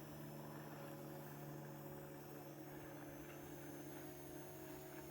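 Faint, steady hum of a Parrot ANAFI quadcopter's propellers hovering overhead: several steady tones with a thin high whine above them.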